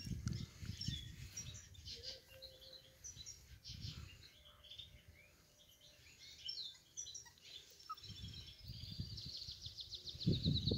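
Small birds chirping in many short, high calls, with a rapid trill starting about three quarters of the way through. Under them a low rumbling noise comes and goes, louder near the end.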